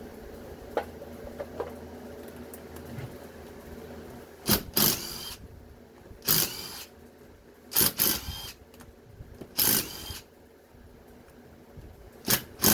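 Cordless drill/driver with an 8 mm socket spinning in about eight short bursts, starting about four seconds in, backing out bolts from a washing machine motor assembly.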